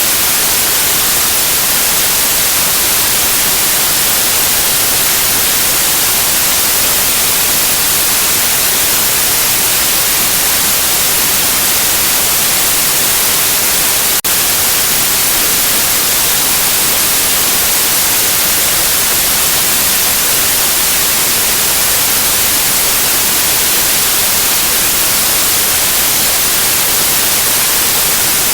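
Steady, loud white noise: an even hiss, strongest in the high treble, with a single very brief dip about halfway through.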